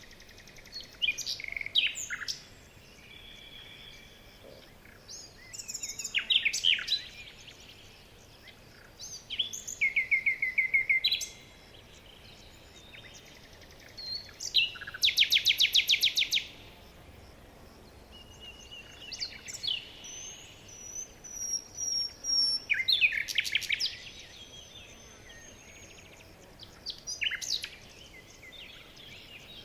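Several songbirds singing and calling in turn, short phrases a few seconds apart with quiet between. About halfway through comes a fast, rapid trill, and a thin high whistle follows.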